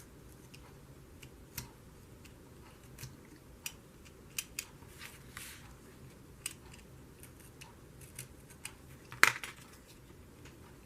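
Paper being recut by hand where an earlier cut didn't go all the way through: scattered small snips and clicks, with one sharper click about nine seconds in.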